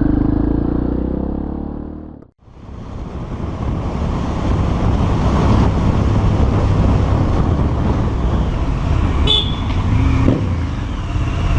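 Motorcycle engine and road noise from a rider's camera while riding in traffic, broken by a brief dropout about two seconds in, with a short high-pitched sound near the end.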